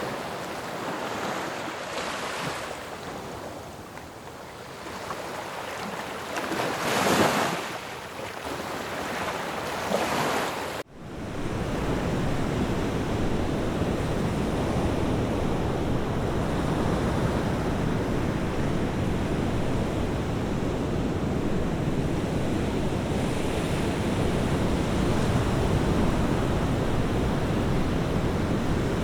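Sea waves breaking on a shore, a rushing wash that swells and falls with surges about seven and ten seconds in. About eleven seconds in it cuts off abruptly into a steadier, deeper, continuous rush of surf.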